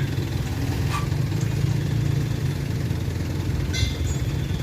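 Large diesel engine running at a steady idle, a low, even rumble.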